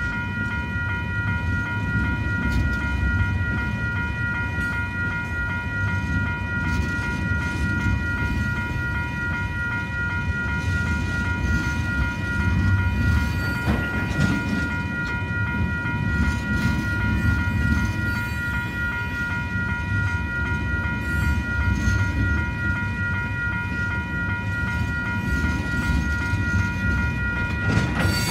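Railroad tank cars of a freight train rolling past: a steady rumble of wheels on the rails. Over it runs a steady ringing tone that pulses evenly, typical of a level-crossing warning bell.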